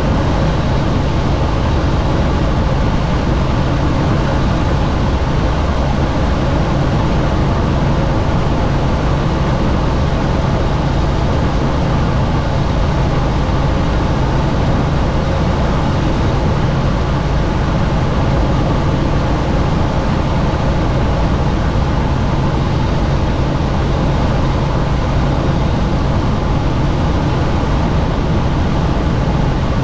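Helicopter in flight with the doors off: a steady, loud drone of rotor and engine with a constant low hum, mixed with rushing wind.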